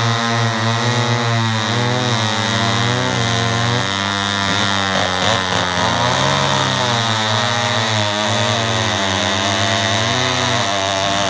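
Two vintage Homelite chainsaws, a 1050 and an XP-1000, with their two-stroke engines running together. Their pitches waver and cross each other throughout.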